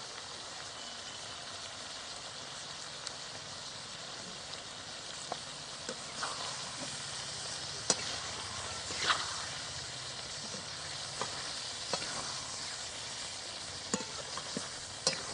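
Chicken giblets and bottle gourd frying with spices, sizzling steadily, while being stirred, with occasional sharp clicks of the spatula against the pan.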